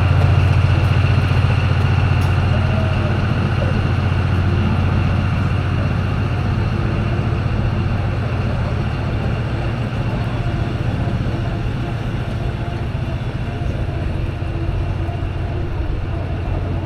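A railway locomotive running with a steady deep hum, slowly growing fainter.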